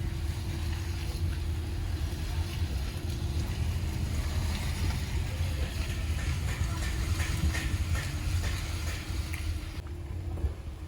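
A steady, low engine rumble, as of a moving vehicle.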